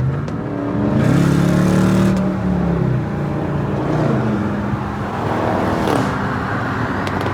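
Car engine accelerating and easing off, its pitch climbing about a second in, dropping a second later, and climbing again near the end.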